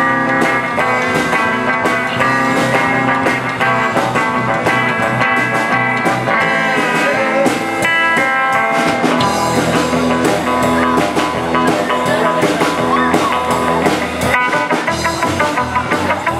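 Rock band music: electric guitar over bass and a steady drum beat, in a 1950s rockabilly style.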